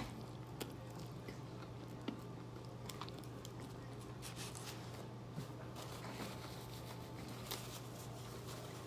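A person biting into and chewing a cheeseburger on a pretzel bun, faint mouth and chewing noises with a few soft clicks, over a steady low hum.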